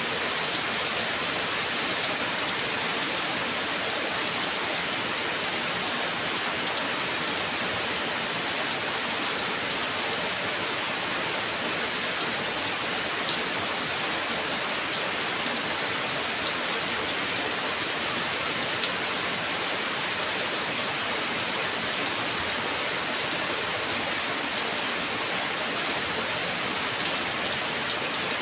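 Heavy rain falling steadily: an even, dense hiss with scattered small ticks of individual drops.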